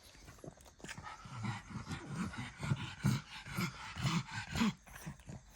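A dog making a quick run of short, low grunting sounds, about two a second, from about one second in until near the end.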